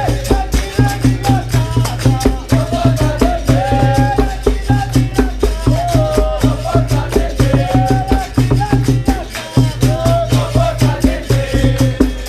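Live capoeira roda music: berimbau with the caxixi rattle over hand percussion keeping a steady beat, and voices singing.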